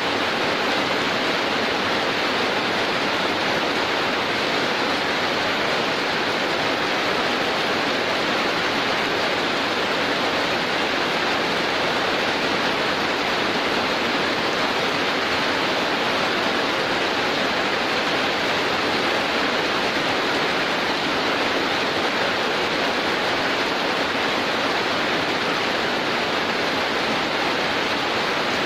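Heavy rain falling in a steady, even hiss, with no breaks.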